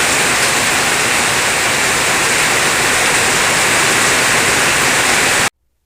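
Heavy rain pouring down in a steady, loud hiss that cuts off suddenly about five and a half seconds in.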